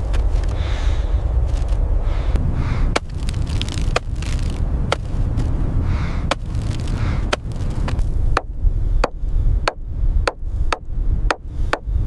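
A series of sharp knocks over a steady low rumble, about one a second at first, then coming faster, nearly two a second, in the last few seconds.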